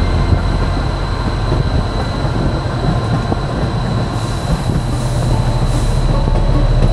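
Running noise of a moving narrow-gauge passenger train: a steady rumble with the rattle and clatter of wheels on rail, heard from a coach's open end platform.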